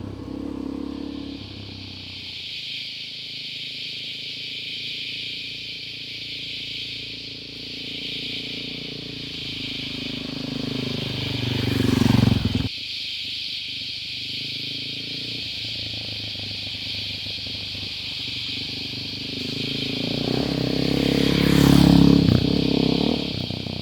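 Suzuki DR-Z400E's single-cylinder four-stroke engine running at low revs, rising in pitch twice and cutting back suddenly about halfway through, over a steady, high chorus of cicadas.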